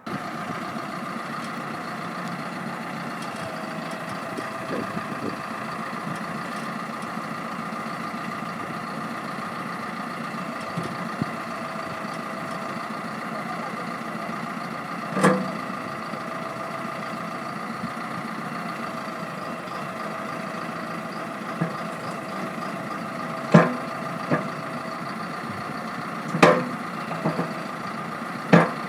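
W1C4 backhoe loader engine running steadily with a high whine, struck through by a few sharp knocks in the second half: one about halfway through and three more close together near the end.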